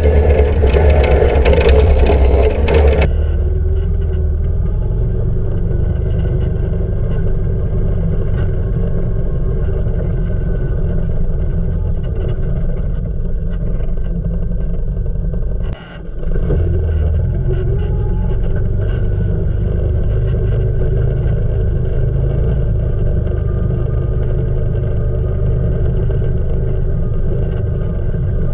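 Can-Am Outlander 800 ATV engine running steadily as the quad is ridden. The sound changes abruptly about three seconds in, from bright and loud to duller, and briefly drops out about halfway through.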